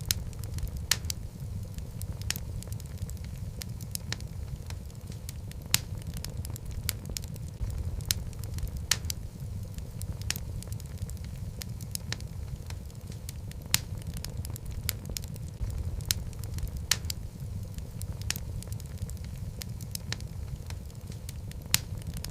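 Wood fire burning in a fireplace: a steady low rumble of flames with irregular sharp crackles and pops from the logs, several a second.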